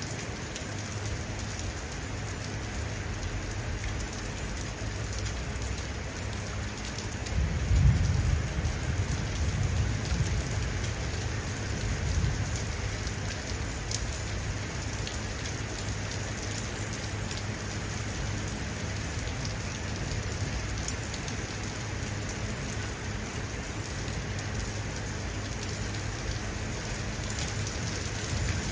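Steady heavy rain falling on hard surfaces. About eight seconds in, a low rumble of thunder swells and fades away over a few seconds.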